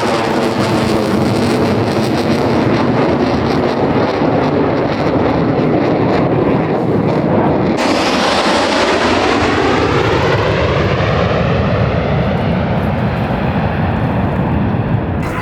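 Blue Angels F/A-18 Super Hornet jets flying past, loud jet noise that sweeps in pitch as they pass. About eight seconds in the sound changes abruptly and a new pass begins.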